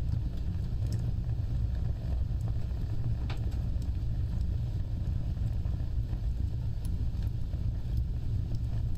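Wood fire burning with a steady low rumble of flames and scattered small crackles and pops, one sharper pop about three seconds in.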